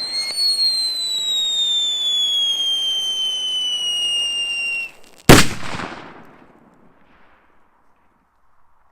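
Whistling firework rocket: a shrill whistle with hiss that slowly falls in pitch for about five seconds, then stops, followed by one loud bang with a trailing echo.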